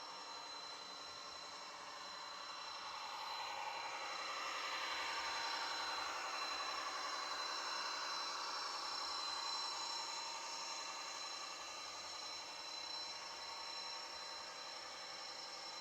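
H0-scale model train, a BR 218 diesel locomotive with regional coaches, running on the layout: a steady high motor whine over the rumble of wheels on track. It grows louder as the train comes closer, is loudest through the middle and eases off toward the end.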